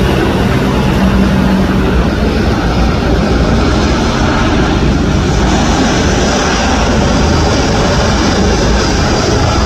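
Aircraft engine noise, loud and steady, with a low hum that fades about two seconds in.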